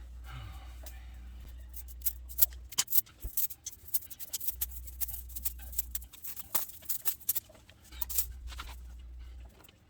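Irregular clicks, taps and light scraping of hand work on metal motorcycle exhaust parts, with a low hum that comes and goes.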